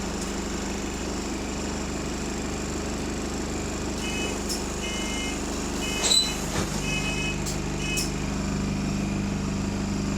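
Diesel engine of London bus ENL59 running steadily under way, heard on board. The bus is in limp mode, and the rider suspects something wrong with its turbo. Between about four and eight seconds in there are several short beeps, with one sharp ringing sound about six seconds in.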